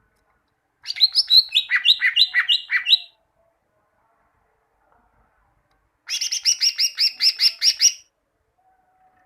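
Cucak ijo (leafbird) song in two bursts of rapid repeated chirps. The first phrase steps down in pitch over about two seconds, and about six seconds in comes a second, steadier run of high notes at about five a second.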